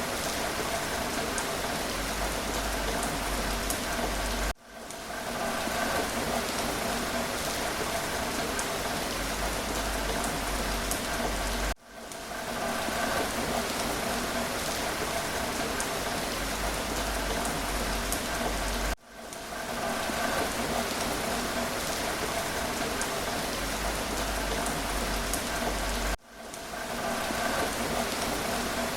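Steady rain falling, a dense hiss with scattered tiny drop ticks. The rain cuts out abruptly and fades back in over about a second, four times, roughly every seven seconds.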